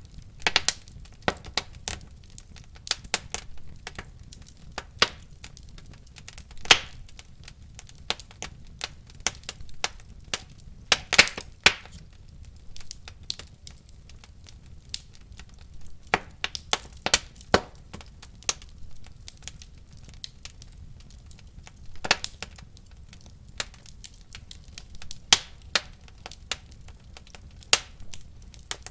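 Wood fire in a fireplace crackling: irregular sharp pops and snaps, a few standing out louder, over a low steady rumble of the flames.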